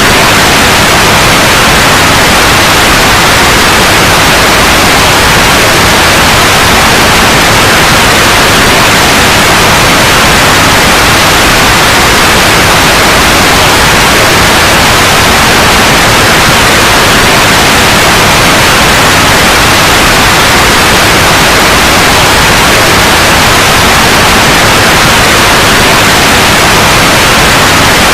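Steady, loud white noise, an even hiss across the whole range that does not change.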